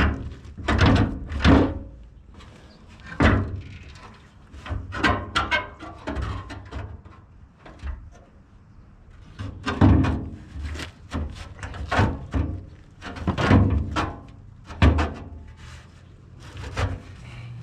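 Irregular heavy knocks and thuds of metal, about a dozen, some briefly ringing, with clattering between: the rear fuel tank of a 1978 Ford F-250 being pushed and banged against the frame and a hitch bar as it is worked at to get it free.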